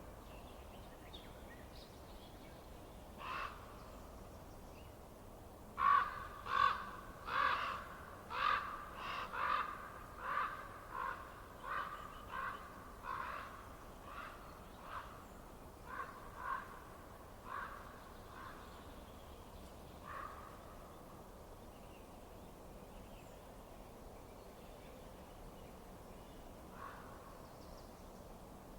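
A bird giving harsh, caw-like calls: one call, then a run of about eighteen calls at roughly two a second that grow fainter, and two more single calls later, over a steady background hiss.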